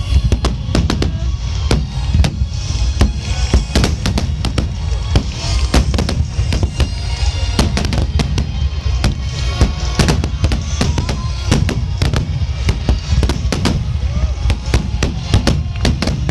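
Fireworks display in full swing: a rapid, unbroken run of shell bursts and crackles over a continuous low booming rumble, with a few rising whistles from ascending shells.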